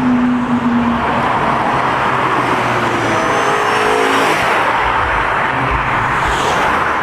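Loud car engines revving and accelerating, with the engine pitch gliding up and down a few seconds in.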